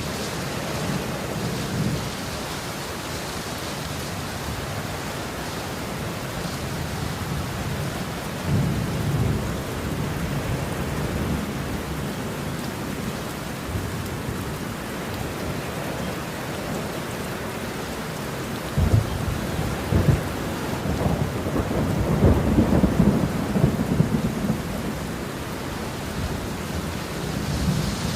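Steady rain falling with rolling thunder: a low rumble swells about a third of the way in, and a louder thunder roll with sharp cracks comes a little past the middle and rumbles on for several seconds.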